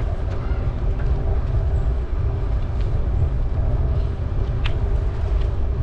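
Steady rumble of a bicycle on the move: tyres rolling on the path and wind on the microphone, with a few light clicks and rattles, the sharpest about four and a half seconds in.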